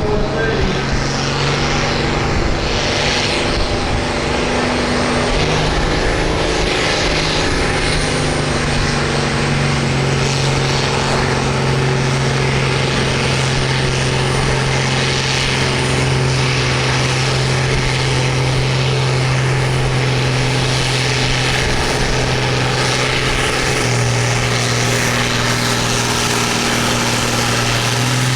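Farm stock tractor engine running hard at steady high revs while pulling the sled. Its note rises slightly about six seconds in and drops to a lower pitch a few seconds before the end.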